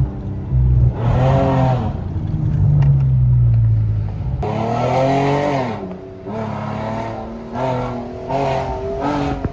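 Car engine revving, its pitch repeatedly climbing and dropping back in blips about a second long over a steady low drone.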